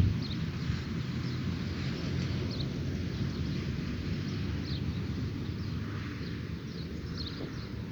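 Dawn outdoor ambience: scattered short, high bird chirps over a steady low wind rumble on the microphone.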